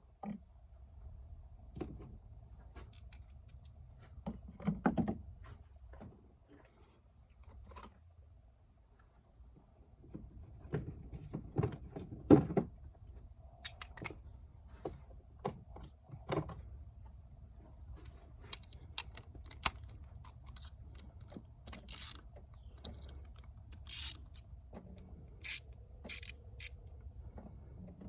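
Hand tools clinking and knocking on metal in a car's engine bay while spark plugs are serviced: scattered short clicks and taps, busiest about ten to thirteen seconds in. Near the end come several brief, sharp hisses.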